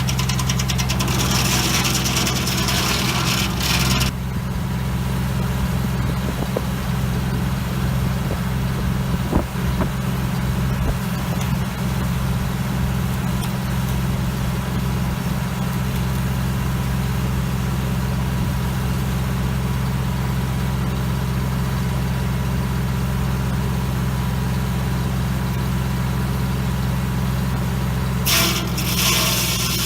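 Engine powering a Foley Belsaw M-14 circle sawmill running steadily, with the blade cutting through wood for the first four seconds and again starting near the end.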